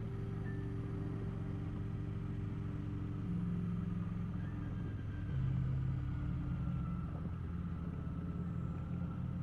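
Kawasaki Vulcan motorcycle engine running while riding, heard from the bike. The engine note shifts to a new steady pitch a couple of times.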